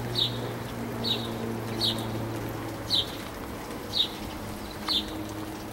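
A small bird chirping a single short, high note over and over, about once a second, over a low steady hum.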